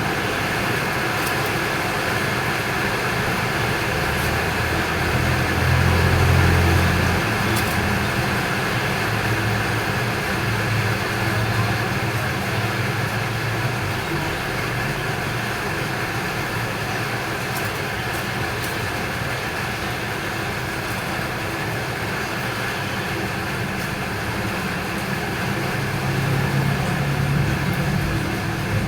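Steady outdoor traffic noise, with the low hum of a passing vehicle growing louder about six seconds in and again near the end.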